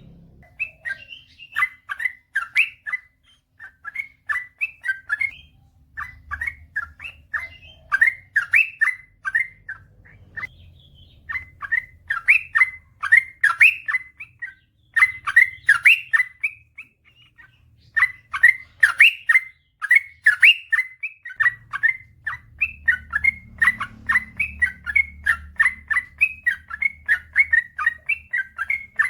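Yellow-vented bulbul (trucukan) singing in long, rapid runs of short chattering notes, phrase after phrase with brief pauses between.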